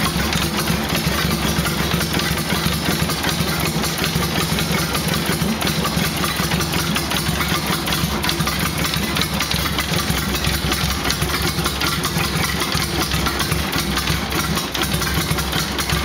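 1977 Honda GL1000 Gold Wing's flat-four engine idling steadily through a home-built exhaust.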